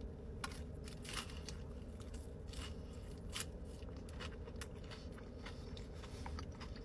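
A person chewing and biting food close to the microphone: many small, irregular crackling clicks, over a steady low hum.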